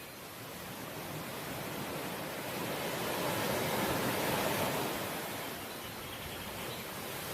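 Ocean waves washing onto the shore: one wave swells up about three seconds in, peaks, then draws back into a steady hiss.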